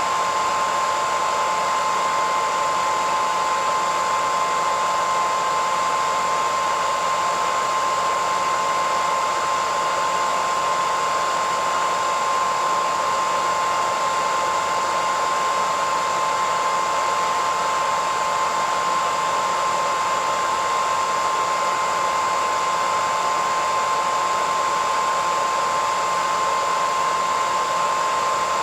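Hairdryer running steadily, a constant rush of air with a steady motor whine.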